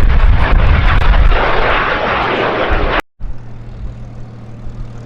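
Loud jet noise of a pair of BAC Strikemaster jets, each running a single Viper turbojet, passing after their break. It eases a little midway, then cuts off abruptly about three seconds in, and a quieter, steady low engine hum follows.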